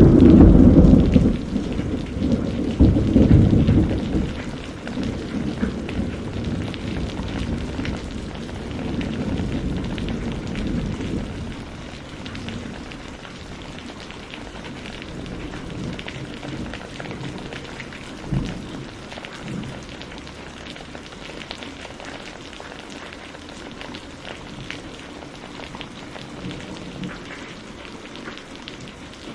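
Thunder rumbles loudly at the start, peaks again about three seconds in, and rolls away over the next ten seconds. A brief low rumble comes about eighteen seconds in. Steady rain falls throughout.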